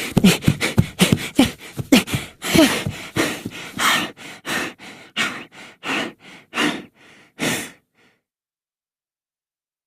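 A run of short, breathy voice sounds, about two or three a second, some with a falling pitch at first. They stop suddenly about eight seconds in.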